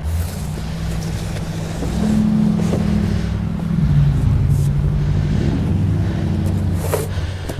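A car engine running and revving, its pitch rising and shifting in the middle, over a low wind rumble on the microphone.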